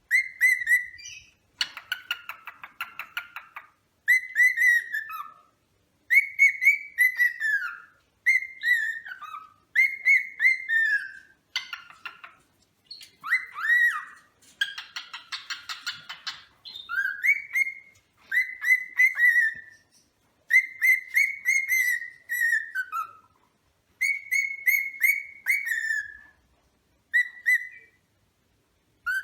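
Cockatiel whistling a string of short calls, each rising then falling in pitch, one every second or two. Two stretches of harsh, rapid chatter come in, one about two seconds in and one in the middle.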